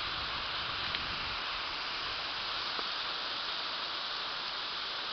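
Steady rain falling, an even hiss, with a couple of faint drip ticks.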